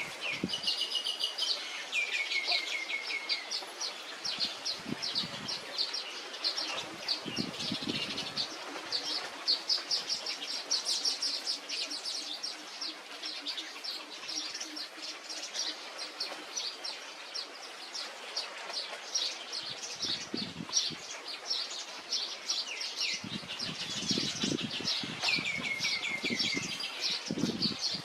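Small birds chirping rapidly and without a break, with a short falling run of clear notes about two seconds in and again near the end, and occasional low thumps.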